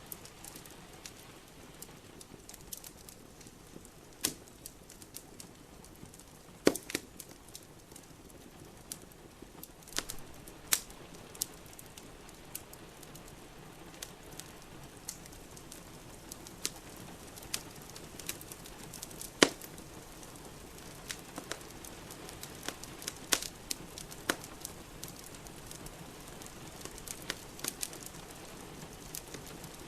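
Wood fire crackling in a fireplace, with irregular sharp pops, over a steady hiss of rain.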